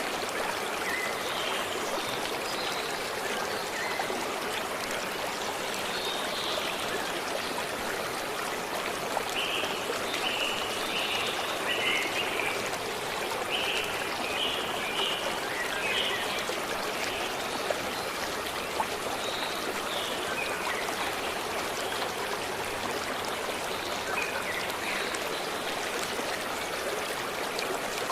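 A flowing forest stream, water running with a steady rush, with short high bird chirps scattered over it, most of them in a busy stretch around the middle.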